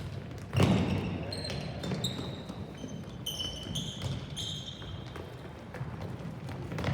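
A ball struck hard once, about half a second in, during a youth soccer match, with short high-pitched squeaks and faint voices from the game going on around it.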